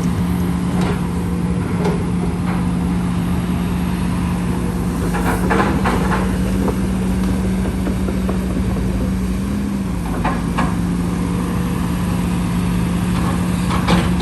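Diesel engine of an excavator dredging a canal, running steadily; its pitch rises a little about halfway through and drops back a few seconds later. Short metallic clanks come now and then over the engine.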